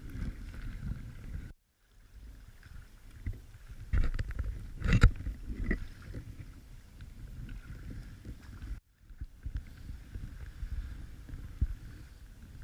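Kayak paddling on a lake: paddle strokes splashing in the water over a low rumble of wind on the microphone, with a couple of sharp knocks near the middle. The sound cuts out completely twice for a moment.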